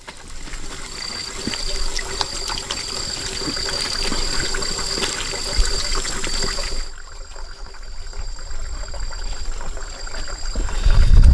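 Jungle stream ambience: water trickling steadily, with a high call repeating in even pulses about twice a second over a steady high drone, and the sound changing abruptly about seven seconds in.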